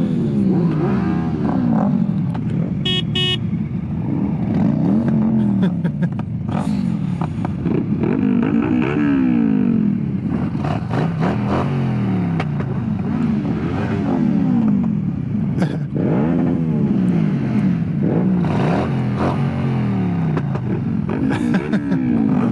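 Motorcycle engines revving up and falling back again and again, several tones overlapping, over a rush of wind noise. A short high beep sounds about three seconds in.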